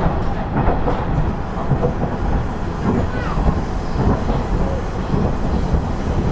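Interior running sound of a KiHa 110 series diesel railcar under way: a steady rumble of engine and wheels on the rails, with a few faint knocks from the track.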